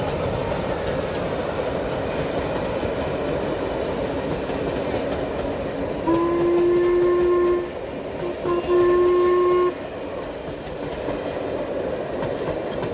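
A train running on the rails with a steady rumble. About six seconds in it sounds its horn twice, two steady held blasts each about a second and a half long, separated by a short gap.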